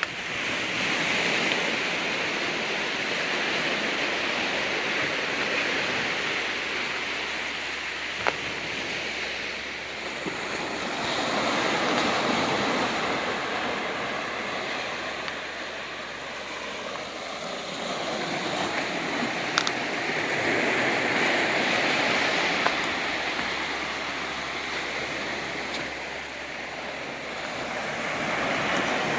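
Ocean waves washing in on a rocky shore, a steady rush of surf that swells and ebbs every ten seconds or so. A few sharp little clicks stand out over it.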